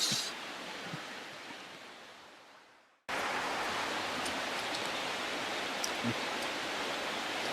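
Steady hiss of heavy rain. It fades away over about three seconds to a moment of dead silence, then cuts back in suddenly at full level and holds steady, with a few faint ticks.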